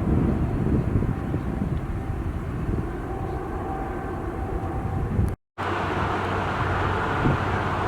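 Jet airliner engine noise: a heavy low rumble with wind buffeting the microphone. It cuts off abruptly about five and a half seconds in, then a steadier engine hiss with a low hum takes over.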